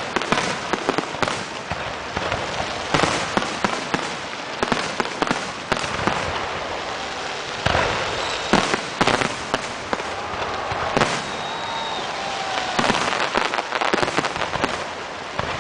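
Aerial fireworks display: shells bursting one after another over a continuous crackle, with sharp bangs throughout and some of the loudest about eight and eleven seconds in.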